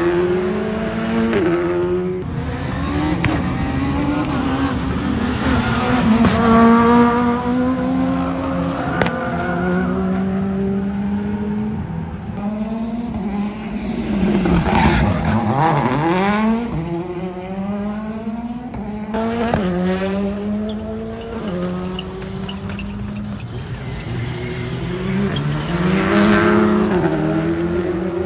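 Rally car engines revving hard on a circuit, climbing through the revs and dropping back at each gear change. Cars pass close by about halfway through and again near the end, their pitch falling as they go past.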